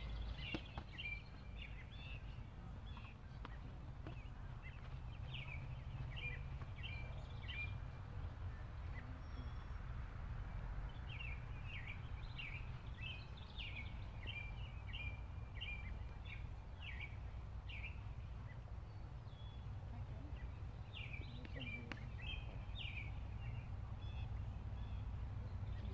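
A songbird singing bouts of quick, chirpy phrases with pauses of a few seconds between them, over a low steady rumble.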